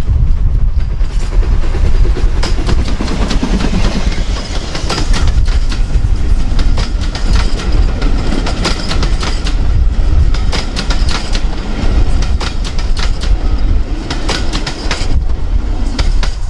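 A train rolling past close by, its wheels clicking over the rail joints again and again. A heavy low rumble of wind on the microphone runs under it.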